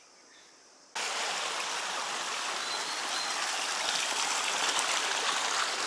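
Rushing water, a loud steady hiss that cuts in abruptly about a second in, after a faint high hiss.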